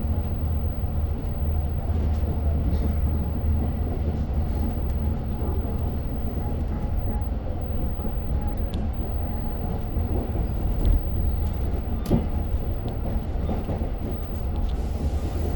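Long Island Rail Road passenger train running between stations, heard from inside the car: a steady low rumble with a few brief clicks and knocks, the sharpest about 11 and 12 seconds in.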